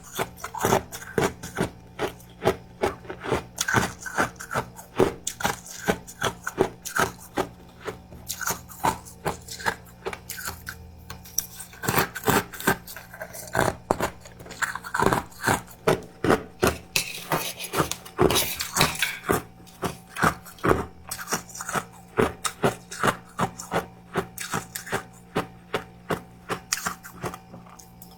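Close-up crunching of powdery freezer frost being bitten and chewed: rapid, irregular crisp crunches, a few each second.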